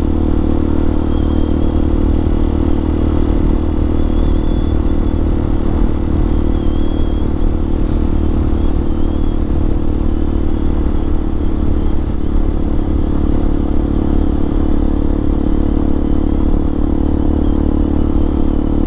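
Hawk 250 dual-sport motorcycle's single-cylinder four-stroke engine running at a steady pace while riding.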